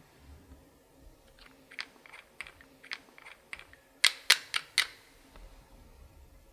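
Slime being squeezed and worked by hand, making a string of sharp little clicks and pops that get louder, with four loudest pops close together a little past the middle.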